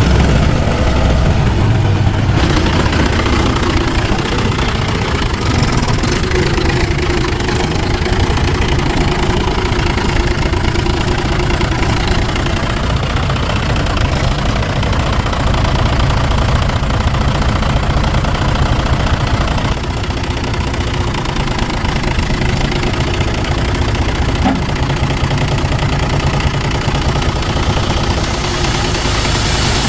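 Heavy machine's diesel engine running steadily at low revs.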